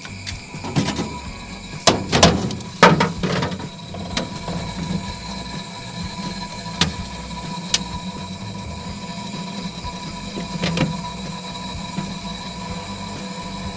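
Refrigerator compressor running with a steady hum while the system is being charged with LPG as refrigerant. Several sharp knocks and clicks come in the first few seconds, with single clicks later.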